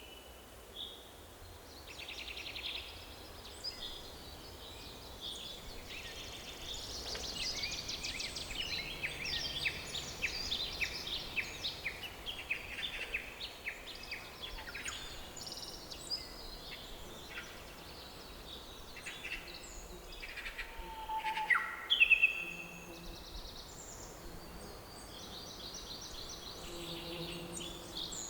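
Several songbirds singing and calling in a forest, with fast trills and chirps throughout and a short loud whistled call about 22 seconds in, over a faint steady background hiss.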